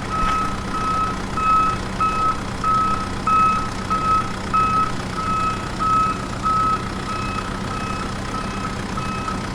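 Reversing alarm of a JCB backhoe loader beeping about twice a second over a steady low engine hum, as the machine works filling in a pit.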